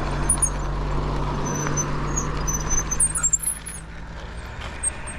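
Steady low hum of a motor vehicle's engine that fades out about four seconds in, over outdoor background noise, with short high chirps scattered through.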